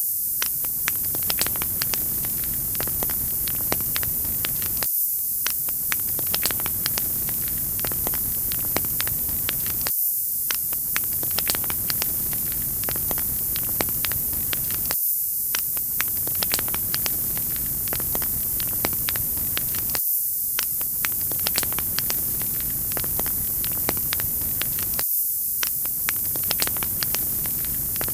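Wood fire crackling in a fireplace: a steady hiss with many small, quick pops and snaps. The same short stretch of sound repeats about every five seconds.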